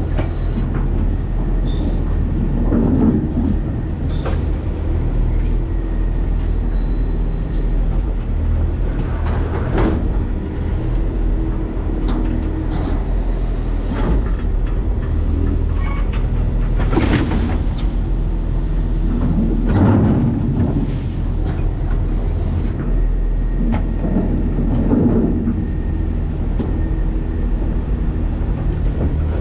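New Way Sidewinder side-loading garbage truck running with a steady low rumble, heard from its hopper, with clanks and rattles every few seconds.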